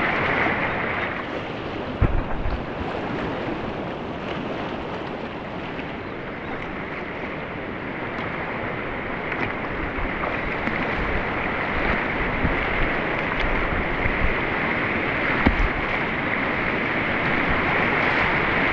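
Rushing river water in a rapid, a steady dense hiss, with a few short knocks, the clearest about two seconds in and again near the end.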